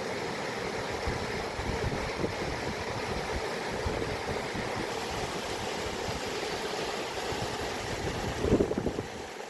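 Water running with a steady rushing sound and a low fluttering rumble beneath, swelling briefly louder near the end.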